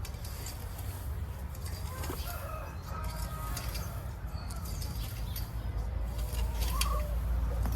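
Chickens clucking with other short bird calls scattered through, over a steady low rumble.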